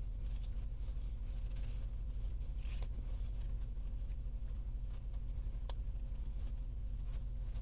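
A steady low hum with two faint sharp clicks, one a little under three seconds in and one nearly six seconds in.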